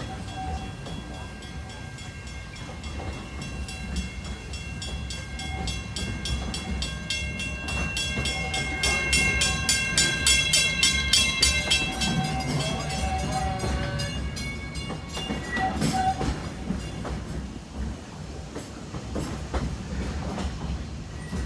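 Narrow-gauge steam train running along the track: a steady rumble with a fast, even rhythmic clatter that grows louder toward the middle. Several high steady tones ring over it and fade out about two-thirds of the way through.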